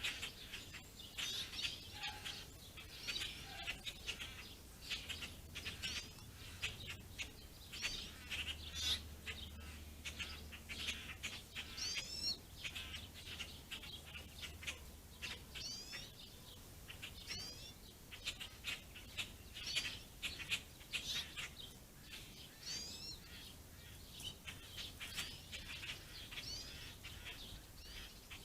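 A mixed flock of small songbirds, house sparrows, house finches and pine siskins, chirping and twittering continuously, with quick rising call notes now and then.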